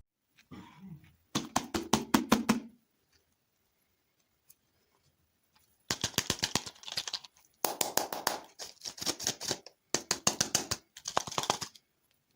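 Close-up crunchy chewing of hard dessert food. It comes in about five bursts of rapid crackling clicks, each about a second long, with silence between them.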